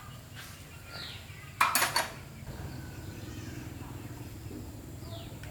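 Metal objects clinking and clattering in a quick cluster of strikes about a second and a half in, over a low steady hum. Birds chirp briefly twice.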